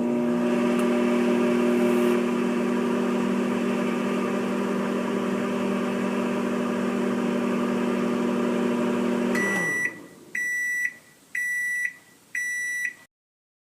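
Microwave oven running with a steady hum that winds down after about ten seconds, followed by four high beeps signalling that the cooking cycle has finished.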